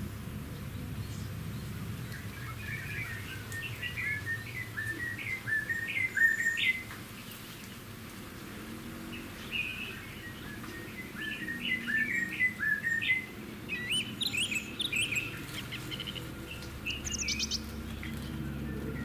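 Birds chirping in a tropical garden: runs of short, quick chirps through the whole stretch, growing busier and higher-pitched near the end.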